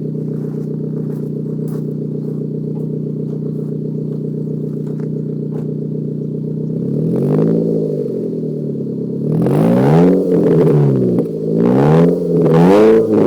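Corsa B 1.2 16-valve four-cylinder engine running through a Sierra Cosworth exhaust, idling steadily, then revved: one blip about seven seconds in, then several quick revs rising and falling near the end, louder than the idle.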